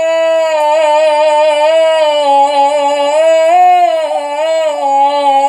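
A solo singer holds one long, drawn-out note in 'ataba folk-song style, unaccompanied. The note wavers in small ornaments, rising a little in pitch past the middle and settling back down.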